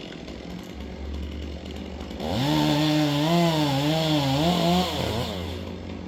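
Chainsaw running low, then revving up about two seconds in and cutting, its engine pitch wavering up and down under load for about three seconds before dropping back.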